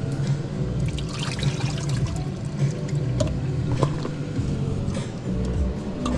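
Water running or trickling, with a few light clinks and knocks, over a steady low hum.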